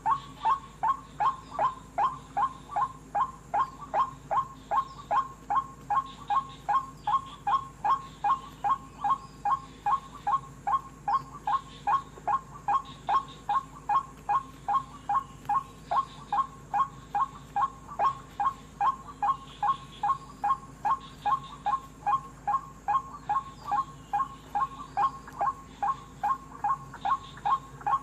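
White-breasted waterhen (wak-wak) call: one short note repeated very evenly, about two and a half times a second, without a break.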